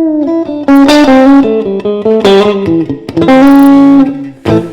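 Fender Stratocaster electric guitar playing a blues lick of single notes, several of them held, fading near the end.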